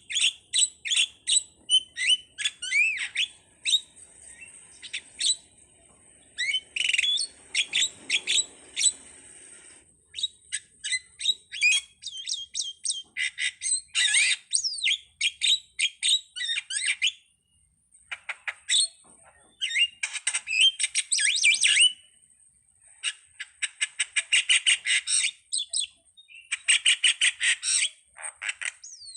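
A starling (jalak) singing a long, varied song of rapid chirps, sliding whistles and harsh squawky notes, delivered in bursts of a few seconds with short pauses between them.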